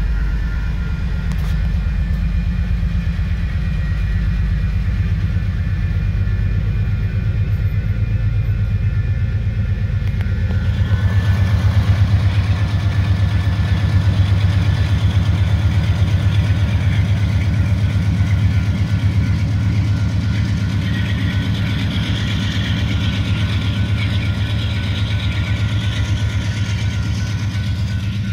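Union Pacific diesel-hauled freight trains rolling through a grade crossing: a steady low locomotive engine rumble, with the wheel-on-rail noise of the passing cars swelling about ten seconds in and staying loud. A steady ringing tone from the active crossing signals runs underneath.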